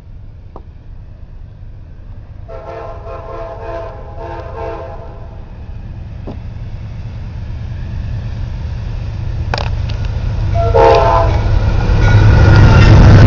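Train passing: a locomotive horn with several notes sounds one long blast, then a short one several seconds later. Under the horn, the low rumble of the train grows steadily louder and is loudest near the end.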